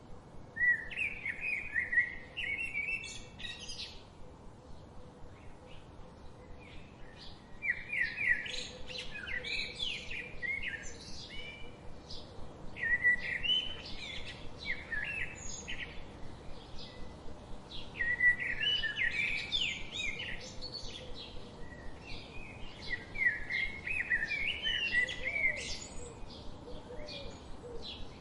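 Songbirds singing in long runs of quick, warbling chirps, broken by pauses of a few seconds, over a faint steady hiss.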